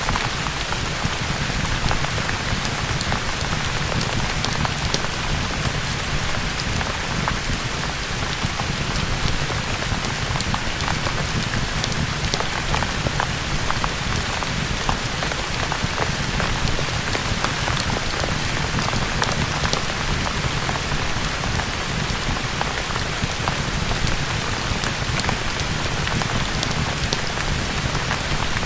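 Steady rain falling, an even hiss with scattered sharp ticks and a low rumble underneath.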